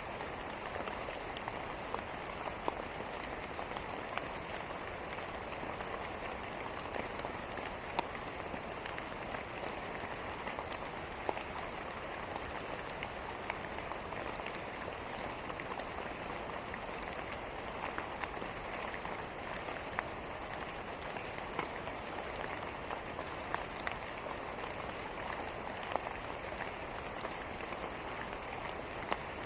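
Steady rain falling, an even patter with occasional sharper drop hits standing out every second or few.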